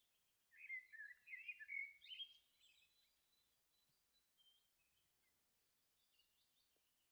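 A songbird singing: a quick run of varied warbling, chirping notes over the first couple of seconds, then softer, scattered chirps.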